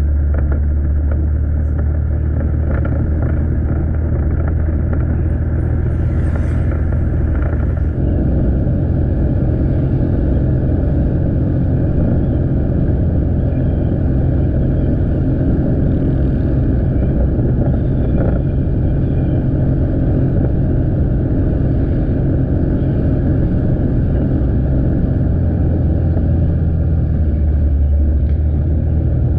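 Motorcycle engine running steadily under way, with road noise. The engine note changes about eight seconds in and again near the end.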